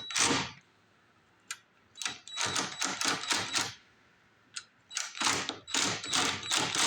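Metal hand tools clicking and rattling against the snowblower's fittings in quick bursts, three runs of rapid clicks with a single click in each gap, as a tool is worked at a hard-to-reach bolt.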